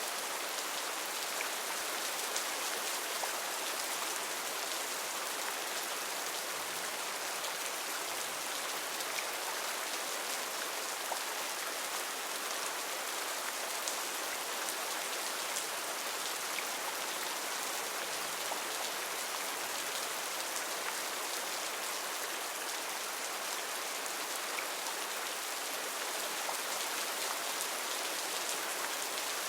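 Heavy rain falling steadily in a rainforest, a dense even hiss of drops with scattered individual drop ticks.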